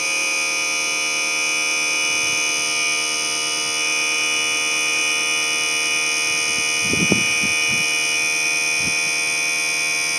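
Electric power trim/tilt pump motor of an outboard running steadily with a buzzing whine as it raises the engine from its lowest trim position.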